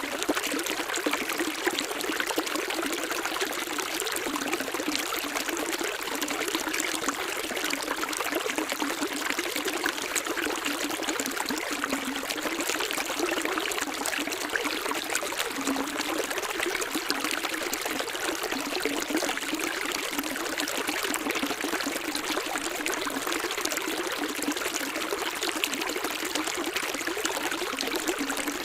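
Running water of a small stream, trickling and splashing steadily with no let-up.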